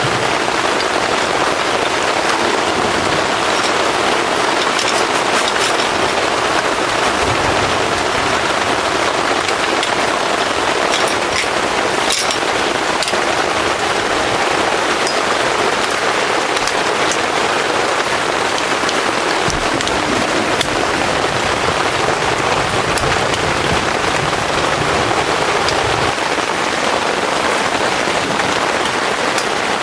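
Heavy rain falling steadily, with scattered sharper drop ticks over the even downpour.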